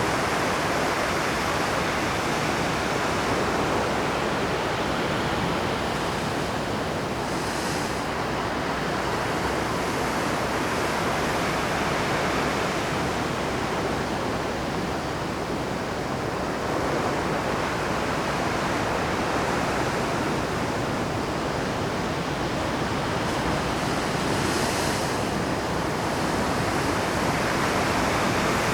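Rough Pacific surf breaking and washing over shore rocks: a continuous rush of waves that swells and eases. A brief hiss of spray comes about seven seconds in and again near the end.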